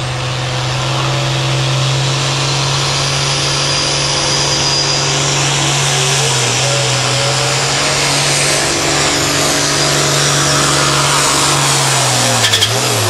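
Hot farm pulling tractor's engine running flat out under load as it drags the pulling sled, its pitch held steady, then falling away near the end as the pull winds down.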